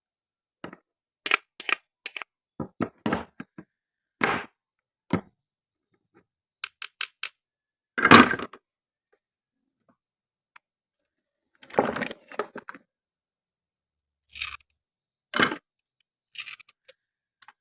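Toy kitchen knife cutting plastic and wooden toy fruit: a string of short sharp clicks, cracks and knocks with dead silence between them, the loudest about eight seconds in.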